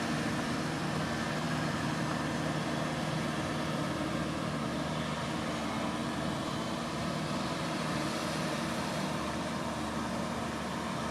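Kubota M6040SU tractor's diesel engine running steadily at a constant pitch.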